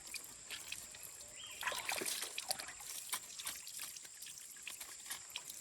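Water trickling and dripping, with many small light clicks and taps throughout.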